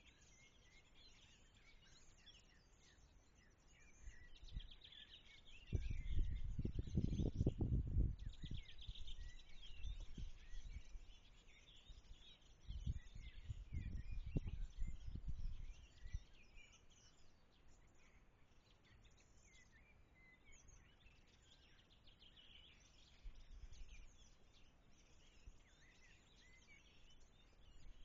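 Small birds chirping and singing in many short overlapping calls. Twice a loud low rumbling noise rises and fades for a few seconds, about a quarter of the way in and again near the middle.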